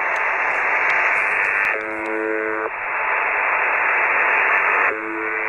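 UVB-76 ("The Buzzer") shortwave transmission received over radio: steady static hiss with a buzzing tone sounding twice, each buzz about a second long and about three seconds apart.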